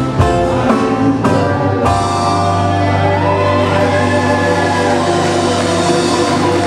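Live Hawaiian band music: quick strummed notes, then from about two seconds in a long held chord with one note gliding up and back down.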